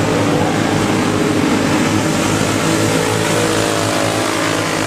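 Several racing go-kart engines running at speed together, a steady mix of overlapping engine notes.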